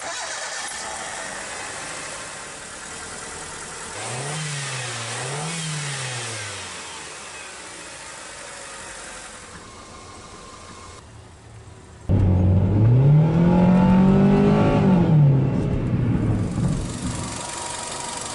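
1999 Mitsubishi Mirage's 1.5-litre four-cylinder 4G15 engine idling and being revved. There are two quick blips about four seconds in. Later it is louder, with one longer rev that climbs and falls back to idle.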